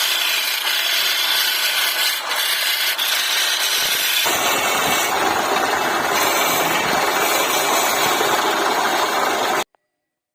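Power tools cutting wood, a loud continuous grinding noise that changes to a fuller, deeper sound about four seconds in and stops abruptly near the end.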